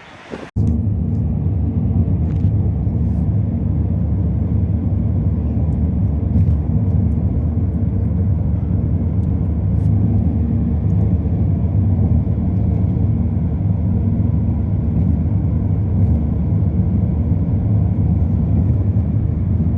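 Car driving at steady speed: a loud, even low drone of engine and road noise that starts abruptly about half a second in and holds unchanged.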